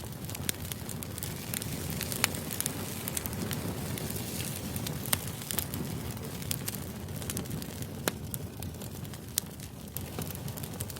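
White-noise background ambience: a steady low rush with scattered sharp crackles and pops, the loudest about 2, 5 and 8 seconds in.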